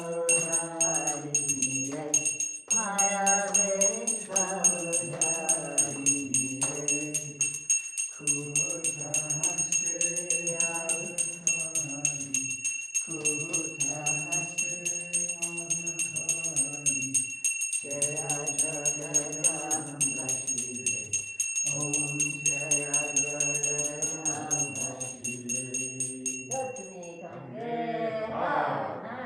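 Voices singing a devotional Hindu hymn in held, melodic lines, with a small bell rung rapidly and steadily throughout. The bell stops shortly before the end while the singing goes on.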